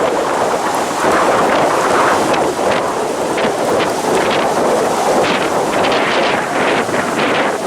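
Strong wind buffeting the microphone: a loud, continuous, gusting rumble and roar.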